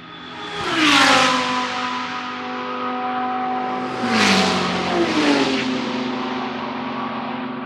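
Two GT3 race cars pass at speed one after the other, about three seconds apart, each engine's note dropping in pitch as it goes by, then running on as a steady drone into the distance.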